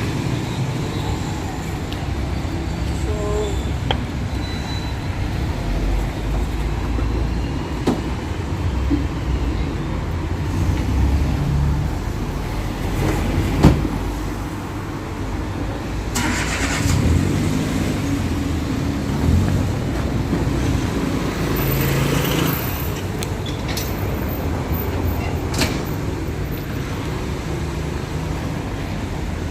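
City street traffic: cars running and passing in a steady low rumble, with scattered small knocks and one sharp knock a little before halfway.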